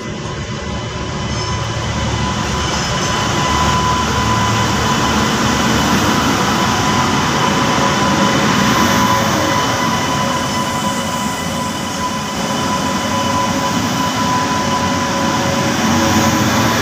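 A train running at close range: a loud, steady rumble and rattle of wheels and wagons, with a thin, steady high whine over it.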